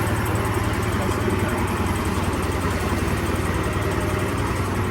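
Motor vehicle engine running steadily, a constant low drone with no change in speed.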